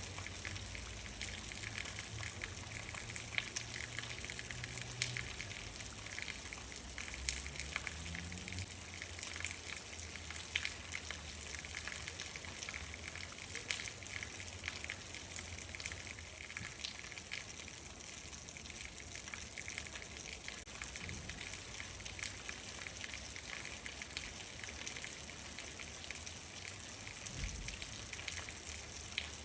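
Steady rain, with many individual drops pattering and splashing on surfaces.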